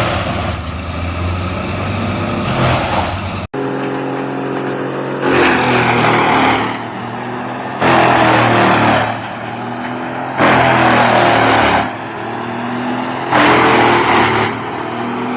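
Large tree chipper running: a steady engine note with four loud surges of shredding noise a few seconds apart as logs are fed in and chipped. There is an abrupt cut in the sound about three and a half seconds in.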